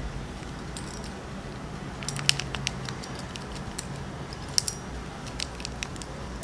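Car key chain being handled: light metallic clicks and jingles, scattered and irregular, mostly in the second half.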